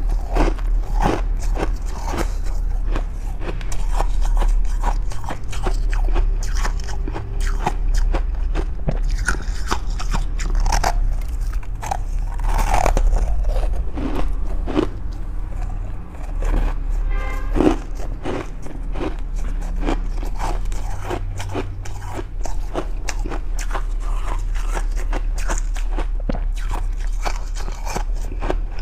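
Freezer frost being bitten and chewed close to the microphone: a dense run of crisp crunches over a steady low hum.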